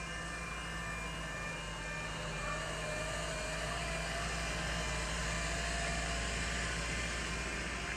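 An approaching train running along the rails, a steady rumble that grows slightly louder through the middle of the clip, with a faint wavering whine partway through.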